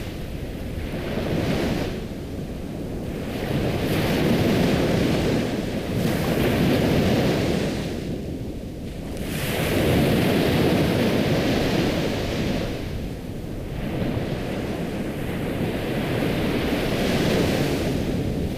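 Ocean surf: waves washing in and drawing back, the rush rising and falling every few seconds.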